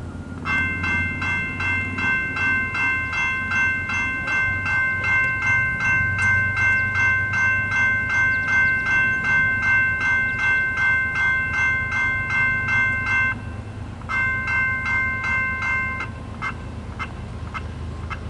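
Railroad grade-crossing bell ringing rapidly and steadily with a low rumble underneath. It breaks off briefly, rings again for a couple of seconds, then winds down to a few single strikes.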